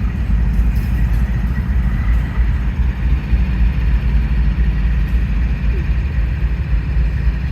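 Freight train passing close by: a steady low rumble of locomotives and rolling cars, with a faint thin whine above it.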